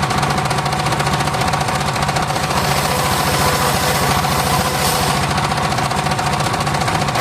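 Engine of a home-built circular sawmill running steadily, with a rapid, even knocking beat and a steady high tone over it.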